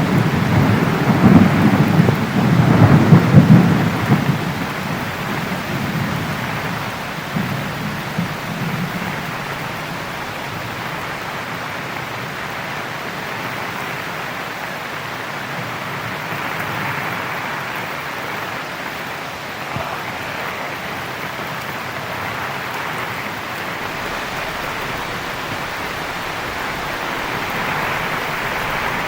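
Heavy rain falling steadily, with a loud rolling rumble of thunder in the first few seconds that dies away, then a fainter rumble a few seconds later, leaving the rain alone.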